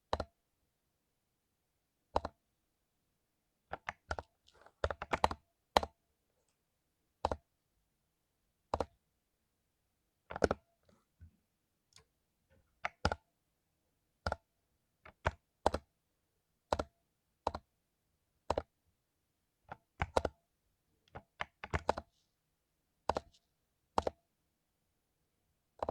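Mechanical keyboard with lubed Cherry MX Silver linear switches, keys pressed one at a time with gaps of about a second, and a few short quick runs of keystrokes.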